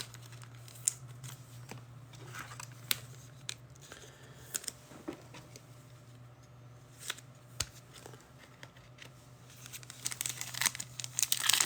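Trading card packs and cards being handled and opened: scattered light clicks and snips, with wrapper crinkling building near the end.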